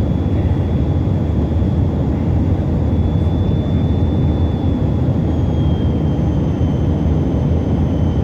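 Steady in-flight cabin noise of a Tupolev Tu-134AK airliner: a dense rumble from its two rear-mounted Soloviev D-30 turbofans, with a thin high whine held over it that dips slightly in pitch about halfway through.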